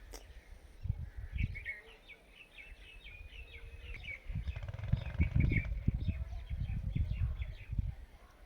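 Indian ringneck parrot chattering in a quick run of short, high chirps that stop about five and a half seconds in. Low rumbling noise, loudest in the middle, runs under and after the chirps.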